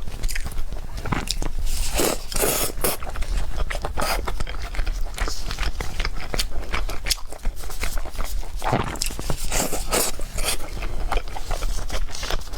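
A person eating: repeated bites and chewing, with crunching and scraping sounds coming irregularly and densely.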